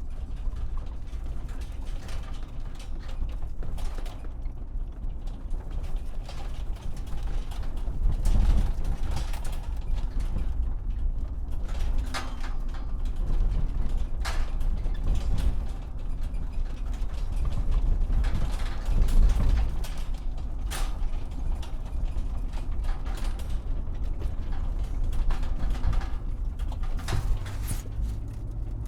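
Plastic toy vehicles being handled and rolled about: a continuous low rumble of small wheels, with many irregular clicks of plastic parts.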